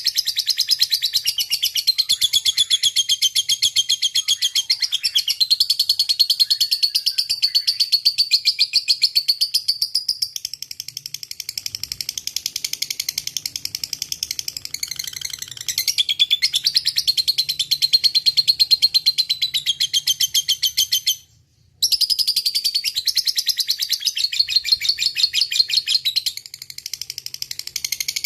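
Lovebird singing its long ngekek, a rapid high-pitched chattering song delivered in an unbroken stream. It breaks off briefly about three-quarters of the way through, then resumes.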